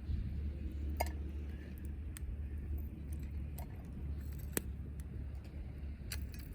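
Wood campfire burning, with a handful of sharp crackling pops, the loudest about halfway through, over a steady low rumble.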